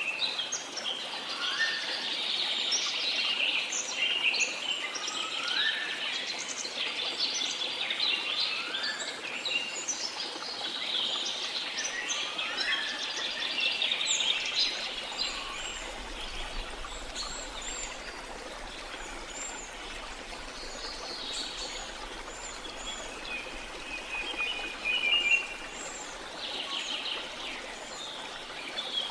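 A chorus of many birds chirping and calling over a steady background rush of water. Repeated upward-sweeping calls mix with quick chirps for the first half, then the calls thin out, with a brief loud trill near the end.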